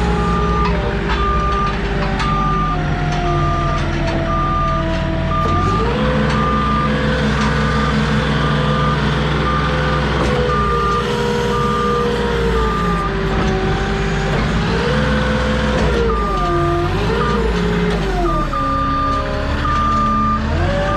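Truck-mounted forklift's engine running and changing pitch as it maneuvers and works the lift, with its reversing alarm beeping in an even on-off rhythm through most of it.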